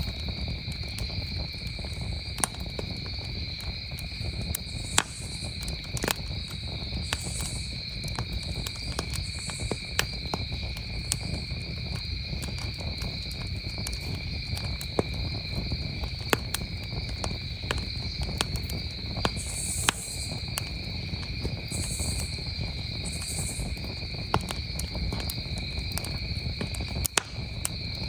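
Wood campfire crackling, with sharp pops scattered irregularly over a low rush, while crickets trill steadily and without a break in the background.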